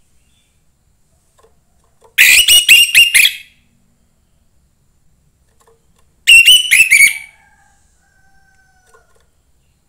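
Young orange-headed thrush calling: two short bursts of quick, repeated sharp notes, about four seconds apart, with a faint thin whistle after the second.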